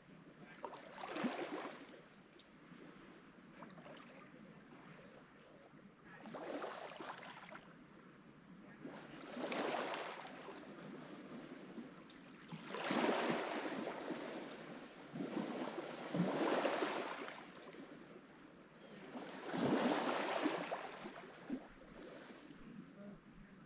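Lake Michigan waves breaking and washing up the shore, the surf swelling and falling back about six times, every three to four seconds.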